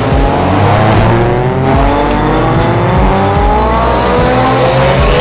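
Car engine accelerating hard, its pitch climbing in long rising sweeps again and again.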